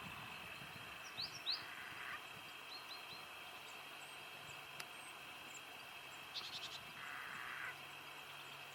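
Eurasian jay giving one harsh, rasping call about seven seconds in, over a steady high insect drone and a few short chirps from small birds.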